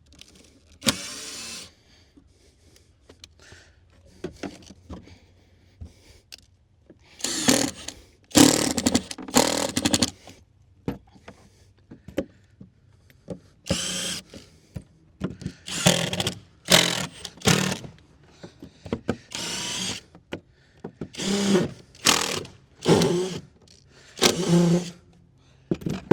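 Power drill driving screws into wooden deck boards, in a series of short runs with pauses between them.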